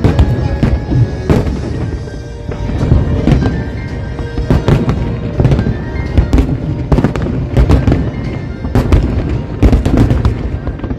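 Aerial fireworks bursting in a dense barrage: overlapping booms and sharp cracks several times a second, over a constant low rumble, with music playing along.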